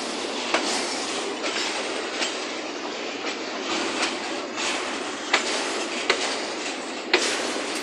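Freight train of hopper wagons rolling past close by: a steady rumble and rush of steel wheels on rail, with sharp clacks about seven times at uneven spacing as wheel sets cross rail joints.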